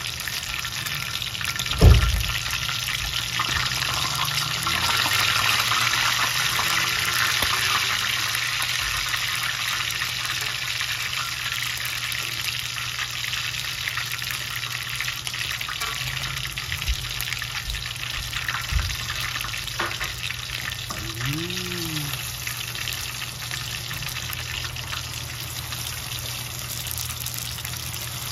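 Chicken pieces frying in hot oil in a wok, a steady sizzle, with a single thump about two seconds in. A low steady hum runs underneath.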